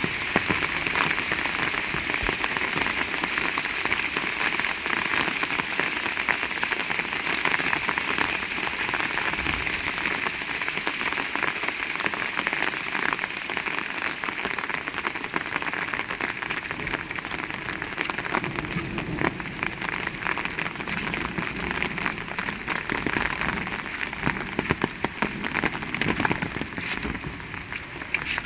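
Heavy rain falling steadily, a dense hiss of drops with many small ticks of individual drops hitting surfaces.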